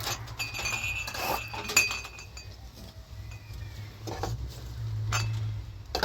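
Clinking of dishes or utensils: a few sharp knocks, the first one leaving a piece ringing for about two seconds, over a steady low hum.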